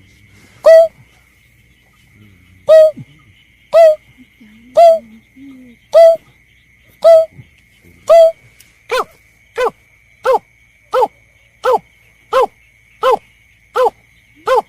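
Recorded lure call of the berkik (belkek), a snipe: single short call notes about once a second, then from about nine seconds in a faster, lower-pitched, evenly spaced series of calls. A steady thin high tone runs underneath.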